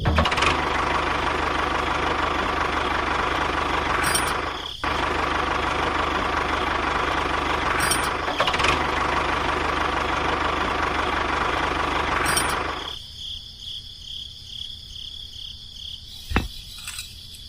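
A small motor runs steadily with a buzzing rattle, breaking off for an instant about five seconds in. It drops to a much quieter sound after about thirteen seconds, with a single click near the end.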